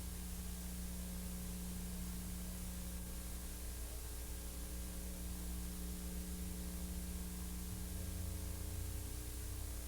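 Steady hiss with a low electrical hum and rumble underneath, unchanging throughout: the noise floor of a silent film's transfer, with no soundtrack on it.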